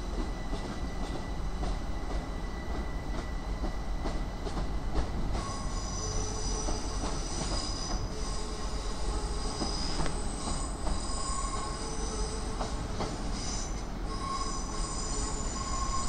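A train moving on the rails with a steady rumble. About five seconds in, a high metallic squeal of several shrill tones at once sets in and keeps going.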